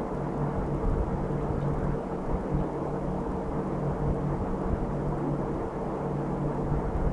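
A motor running steadily, a constant low hum over a rumble.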